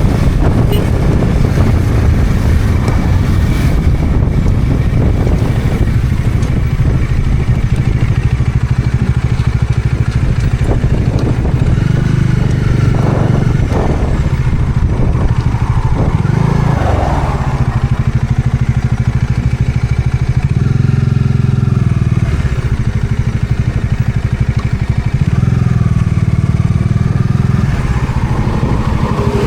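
Bajaj Dominar 400's single-cylinder engine running while the motorcycle is ridden, the engine note shifting up and down several times as the rider changes speed, with wind noise on the microphone.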